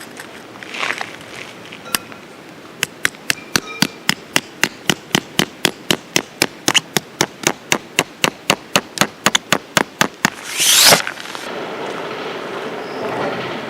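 A hammer striking in a quick, even rhythm, about four blows a second for some seven seconds. It is followed by a single loud rushing sweep and then a steady rumbling noise.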